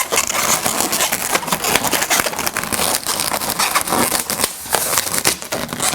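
Latex twisting balloons rubbing and crackling against each other as they are handled and twisted into a balloon sculpture, a dense run of rapid small rubbing noises.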